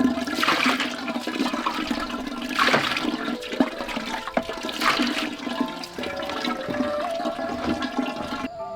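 Water pouring and splashing in three surges about two seconds apart.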